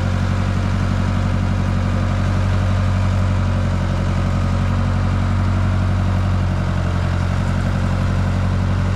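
An engine idling steadily at an even speed, with a low, unchanging drone.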